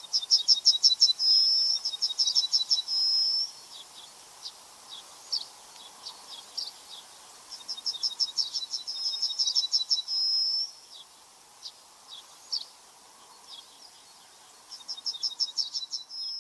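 A small songbird singing: three phrases of a rapid high trill, each lasting about three seconds and ending in a short steady whistle, with single sharp call notes in the gaps between them.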